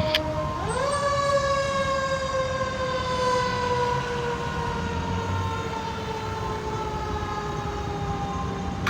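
Fire truck siren wailing: its pitch sweeps up quickly about half a second in, then slides slowly down for the rest of the time, over the low rumble of the truck.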